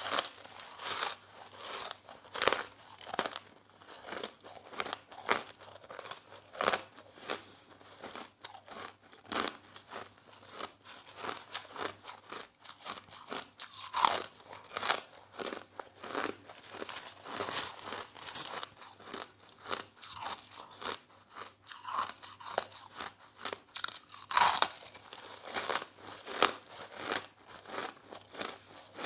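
Close-up crunching and chewing of soft crushed ice in the mouth: a steady run of irregular, crisp crunches, several a second, with a few louder bites.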